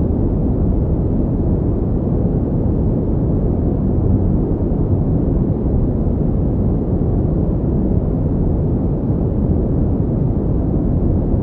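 Pink noise: a steady, even rushing hiss, deep and weighted toward the low end, without any change.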